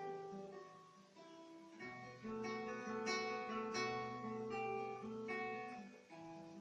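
Classical acoustic guitar played fingerstyle: single plucked notes over bass notes, with several full chords struck about two to four seconds in.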